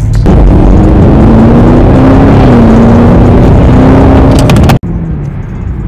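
Car engine running loud and held at high revs, its pitch steady with a small dip and rise partway through. It cuts off abruptly near the end, leaving a much quieter steady background.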